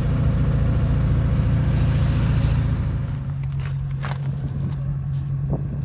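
Steady engine drone of the vehicle towing a round baler down the road, with road noise; about three seconds in it gets quieter and settles to a lower steady tone.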